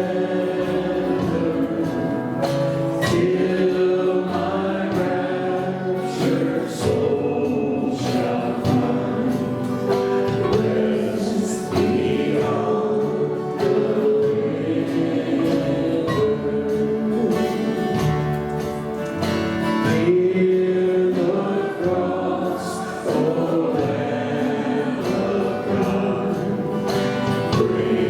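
Worship music: voices singing together with instrumental accompaniment.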